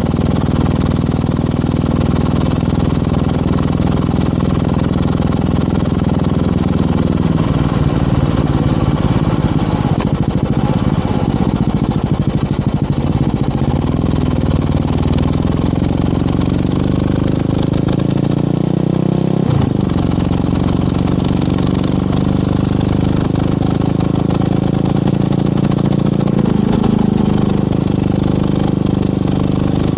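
Motorcycle engine running under way with heavy wind rush, its note holding fairly steady. It shifts pitch a few times, most clearly about two-thirds through, where there is a brief break and the note changes, as at a gear change.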